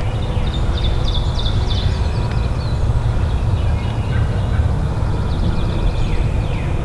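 Songbirds chirping over a steady low rumble, with a cluster of quick high descending chirps about a second in and more near the end.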